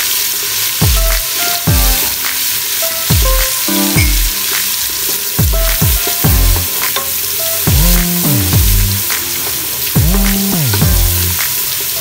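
Garlic-ginger paste sizzling in hot oil in an aluminium pressure cooker, stirred with a wooden spatula. Under it runs background electronic music with bass notes that drop sharply in pitch, about one a second.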